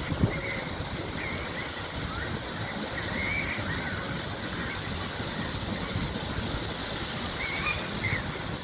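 Steady rush of the lake fountains' splashing water and wind on the microphone, with the low running noise of a Class 317 electric multiple unit and a Class 321 crossing a brick railway viaduct. A few short bird calls break through.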